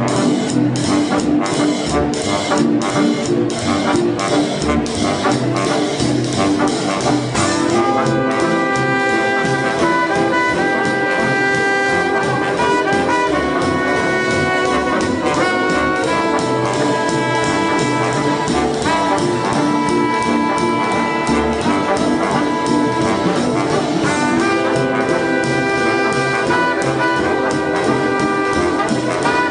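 Big-band swing jazz led by a brass section over a steady beat. About seven seconds in, the horns come in with held chords.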